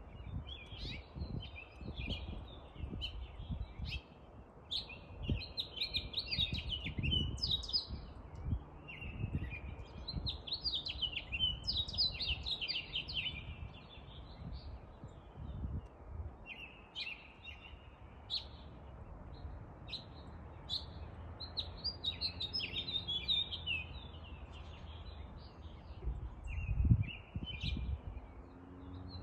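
Songbirds chirping and twittering, many short calls and trills overlapping, with a low rumble underneath that swells briefly near the end.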